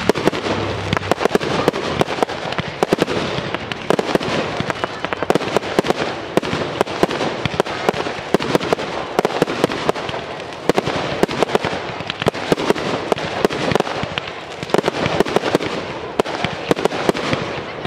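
Fireworks display: shells bursting in quick succession, with many sharp bangs every second over dense crackling.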